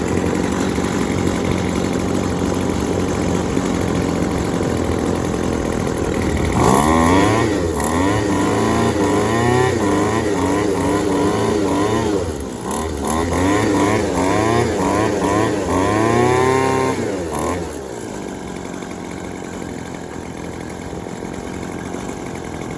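Yardworks 25cc two-stroke string trimmer engine running on a newly fitted carburetor. It runs steadily at first, then is revved up and down repeatedly for about ten seconds, and settles back to a quieter idle near the end, running pretty good.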